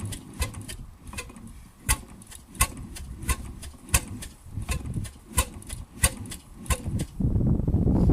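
1921 RSM 3½ HP hotbulb marine engine running slowly. Its sharp ticking beats slow from about four a second to a steady one every two thirds of a second or so. About seven seconds in, a louder rushing noise takes over.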